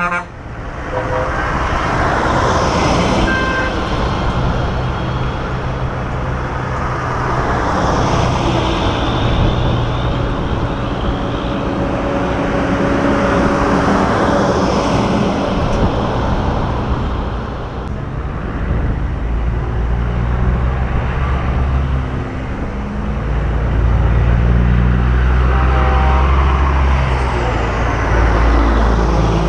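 Semi-trucks in a convoy driving past one after another, diesel engines and tyre noise swelling and fading as each goes by. A deeper engine drone grows heavier near the end.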